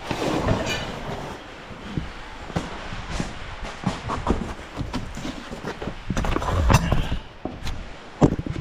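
Irregular metallic clanks and knocks of hand tools being handled on a lawn mower, between tries at a stuck bolt.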